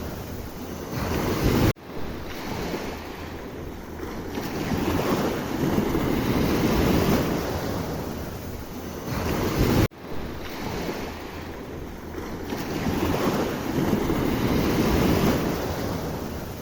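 Sea surf: waves breaking and washing in, swelling and easing every few seconds. The sound cuts off abruptly twice and comes straight back.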